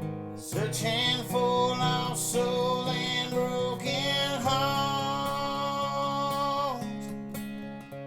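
Country ballad music: a strummed acoustic guitar with a melody line over it that glides between notes and ends on a long held note about seven seconds in.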